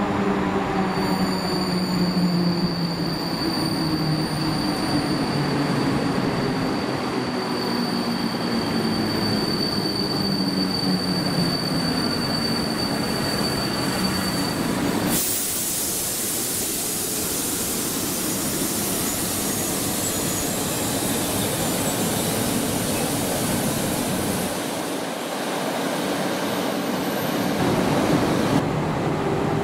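Electric passenger train running slowly through the station: a motor whine falls in pitch as it slows, over a thin steady high squeal. About halfway a sudden loud hiss starts and runs until shortly before the end.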